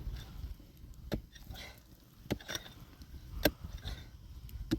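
A series of sharp knocks at a steady pace, about one a second, the loudest about three and a half seconds in.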